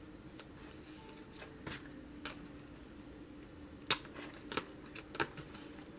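Scattered sharp clicks and taps of a fingertip craft blade and paper being worked on a craft table, about six in all, the loudest about four seconds in, over a faint steady hum.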